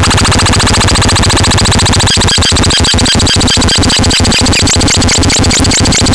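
KASMAX electronic siren unit sounding a loud, harsh multi-tone pattern, turning into a rapid even pulsing of about six beats a second from about two seconds in.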